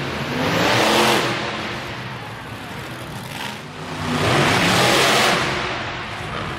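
Monster truck engine revving hard in two surges, the first about a second in and the second about four to five seconds in, pitch rising with each burst of throttle.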